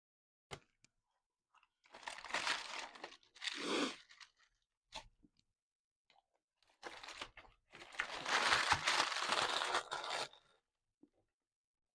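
Close-up crunching and crackling of food being eaten, in two spells: one about two seconds long, then a longer one of about three seconds, with a few faint clicks between.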